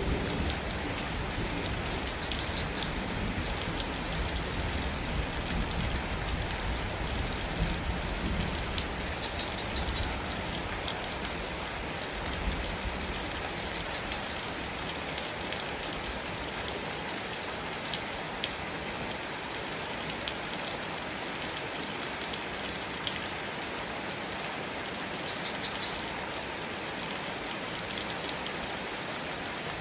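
Steady rain falling, with scattered drops ticking through it. A low rumble, likely the tail of rolling thunder, fades away during the first half.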